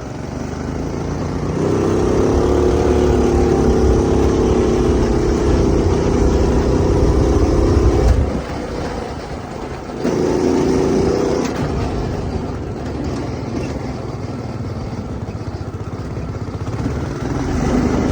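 Go-kart's small gas engine, fitted with a new 30 mm carburetor, running hard as the kart drives under throttle. The engine note drops off sharply about eight seconds in, picks up again briefly around ten seconds, then runs lower.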